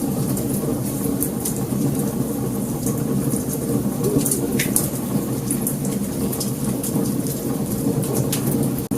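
Wood fire crackling, with many sharp pops and snaps over a steady low rumble of burning; the sound drops out for an instant near the end.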